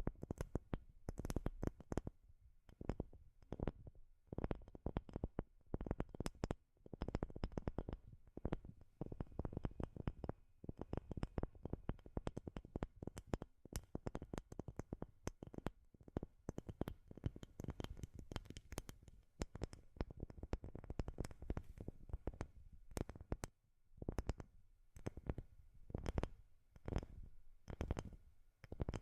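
ASMR tapping on wood: quick, uneven runs of light knocks, several a second, with brief pauses between the flurries.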